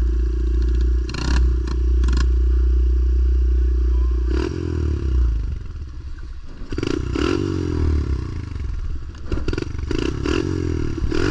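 Pit bike engine running, held at steady revs for the first four seconds or so, easing off, then blipped up and down from about seven seconds in, with clattering knocks over it.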